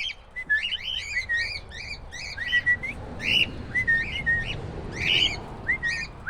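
A flock of cockatiels chirping: a quick, continuous run of short calls, some held briefly as flat whistled notes.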